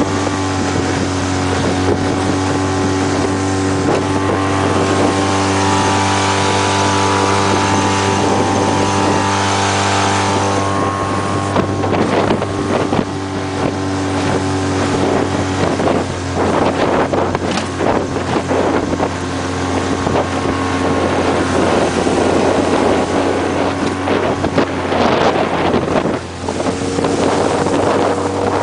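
2006 Suzuki 15 hp four-stroke outboard running with the boat under way: a steady engine note with wind on the microphone and water noise, the engine pitch stepping up near the end.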